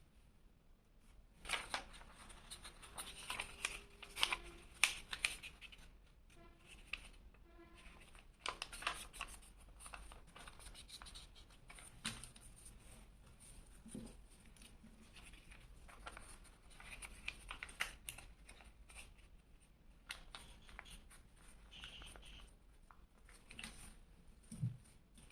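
A sheet of paper being folded and creased by hand: irregular rustles, crackles and scrapes in short runs with brief pauses.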